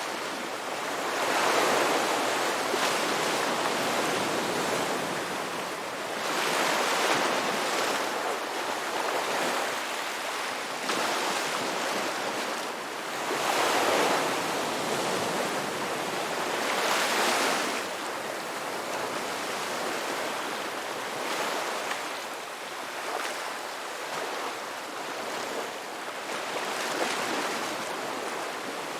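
Ocean surf breaking and washing up on a beach, swelling and ebbing every few seconds as each wave comes in; the loudest surges come in the first half.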